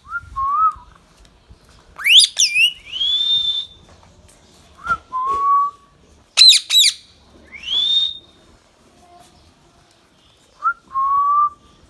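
Indian ringneck parakeet calling: two sets of sharp, piercing screeches, each followed by a rising whistled note, with short lower whistled notes in between and near the end, in a pattern that repeats about every four and a half seconds.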